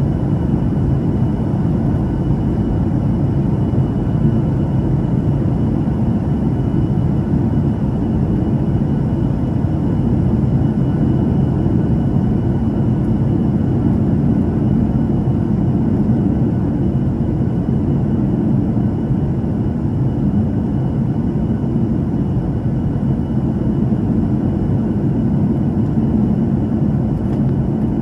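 Cabin noise of a Boeing 737-800 with CFM56-7B engines on final approach: a steady roar of engines and rushing air, with a faint high whine held on one pitch over it.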